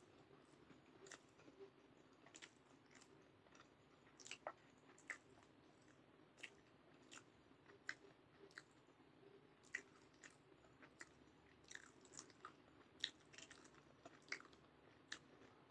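Close-miked chewing of sushi with the mouth closed: faint, soft, wet mouth clicks and smacks, irregular at about two a second.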